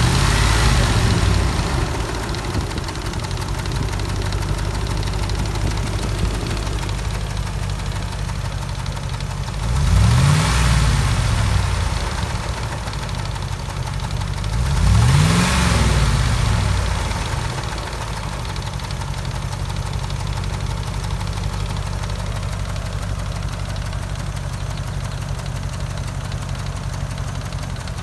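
2004 Dodge Ram 1500's 4.7-litre V8 idling with a ticking noise, revved briefly three times: one rev dying away at the start, one about ten seconds in and another about fifteen seconds in, then settling back to a steady idle. The truck has a logged misfire on cylinder 8 (P0308) that a shop could not trace.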